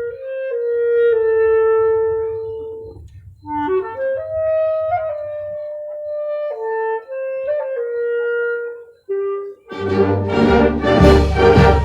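Clarinet playing a slow, lyrical melody of held notes and short runs over a soft low accompaniment. Near the end the accompaniment swells into a loud, full passage.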